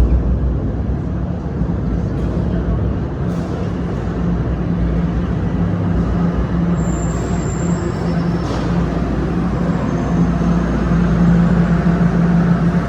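Toronto Rocket subway train moving through the station: a steady loud rumble with an electric hum that swells near the end, and a brief high squeal about seven seconds in.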